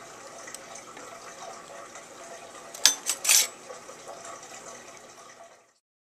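Steady noise of running water, with three sharp clinks about three seconds in. It fades out and stops near the end.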